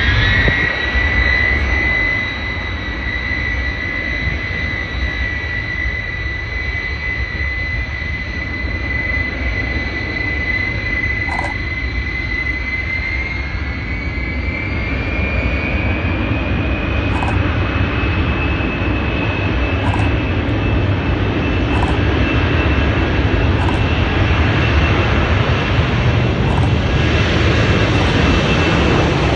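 Airliner engines running: a steady high whine over a broad roar. About halfway through the whine rises in pitch and the roar gets louder toward the end, as engine power comes up.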